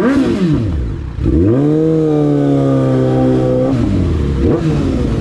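Suzuki GSX650F's inline-four engine running through a new aftermarket exhaust on the move. The revs drop off, then climb sharply about a second in and hold high for a couple of seconds. Near four seconds they fall away, followed by shorter rises and falls.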